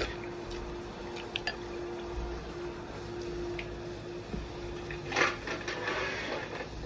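Eating sounds from a hot pot meal: wet chewing and slurping, with a few light clicks of utensils and a louder slurp about five seconds in, over a faint steady hum.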